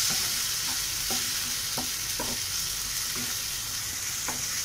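Chopped tomatoes and onions sizzling in hot oil in a nonstick frying pan, stirred with a wooden spatula. There is a steady sizzle, with light scrapes of the spatula about every half second.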